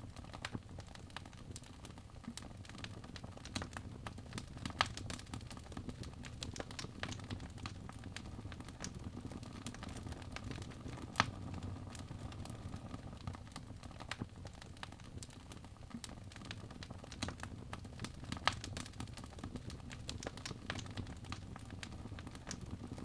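Wood fire burning in a fireplace, crackling with irregular sharp pops over a low steady rumble of the flames. A few pops stand out louder, about five, eleven and eighteen seconds in.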